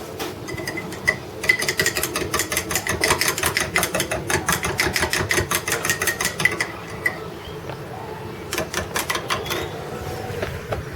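Kettle coming to the boil on a sawdust stove, its lid rattling in a rapid run of clicks for about five seconds with a faint high tone underneath, then a second, shorter burst of rattling near the end.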